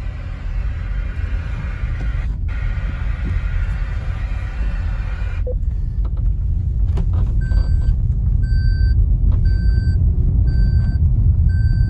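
Steady rumble of road and wind noise inside a Maruti Suzuki Brezza driving, growing a little louder. From about halfway, a short electronic beep repeats about once a second.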